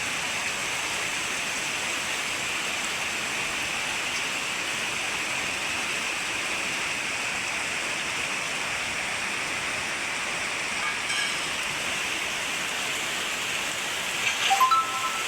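Rainwater rushing down in a steady, even hiss. Near the end there is a short, louder pitched call.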